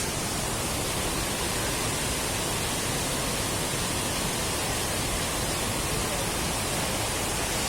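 Steady rushing noise of falling water from a waterfall, unbroken throughout.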